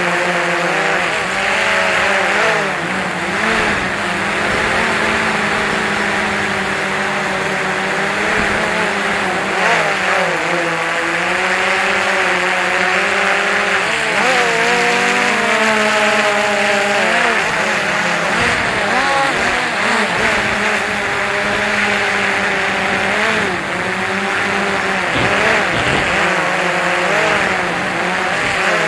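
DJI Phantom 2 quadcopter's electric motors and propellers whining in flight. The whine keeps rising and falling in pitch as the motors speed up and slow down against high wind.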